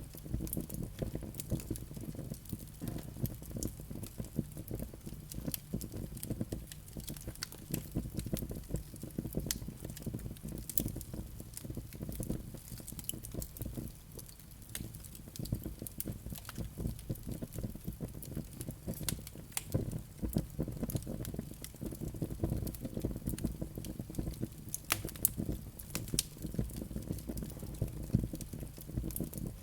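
Wood fire in a fireplace crackling and popping steadily, many small snaps over a low steady rumble of the flames, with a sharper pop a little before the end.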